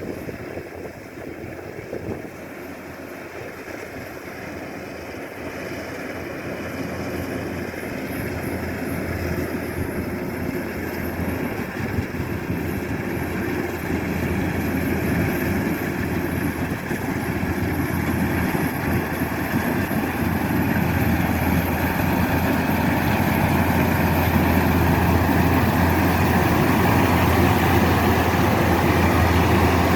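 Kubota DC-105X combine harvester's diesel engine running steadily with a deep hum, growing steadily louder over the half-minute.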